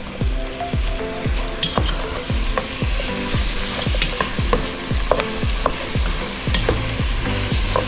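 Chicken wings sizzling and frying in hot oil and honey in a pot as they are stirred and moved around, with sharp clicks of the utensil against the pot now and then.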